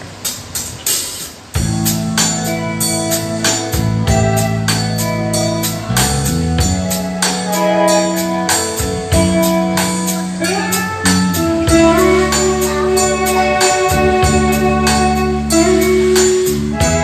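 Band music with no singing: a few sharp drum hits open it, then about a second and a half in a full instrumental begins, with sustained keyboard chords, a bass line and a melody over a steady beat.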